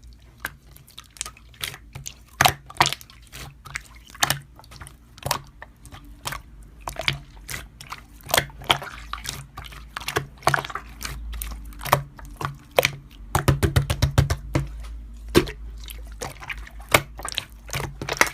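Slime being squished and pressed by hand, making irregular wet clicks and pops, a few each second.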